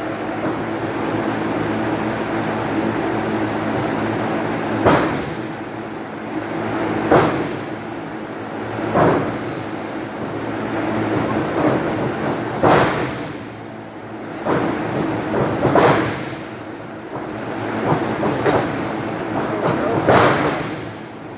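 Heavy thuds on a wrestling ring, about one every one to two seconds, over a steady hum.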